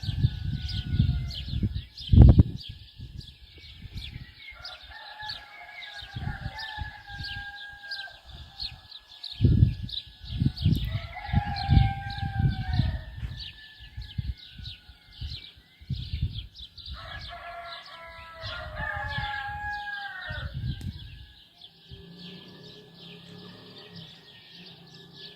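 Roosters crowing, three long crows, over a constant fast high chirping. Gusty low rumble of wind on the microphone, with two sharp jolts.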